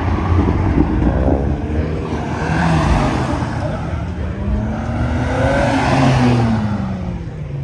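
A car's engine revving as the car drives past. The engine note climbs and then falls twice, louder around the middle and again near the end.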